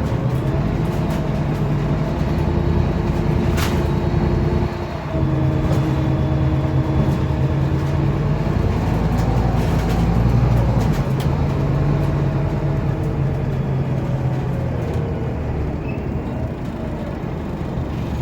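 Scania OmniCity city bus's diesel engine running, heard from inside the bus: a steady low hum that dips briefly about five seconds in, then carries on and fades slightly near the end. A single sharp click comes a few seconds in.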